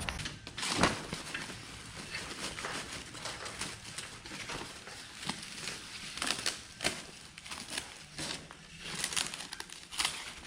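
Packaging being handled and unwrapped from a new truck grille: irregular crinkling and rustling with occasional tearing, and a louder snap about a second in.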